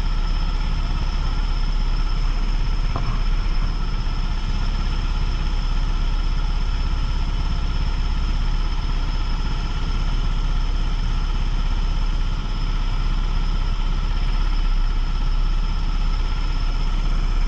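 Kart engine running at a steady, unchanging pitch, with no revving, over a constant rumble and noise.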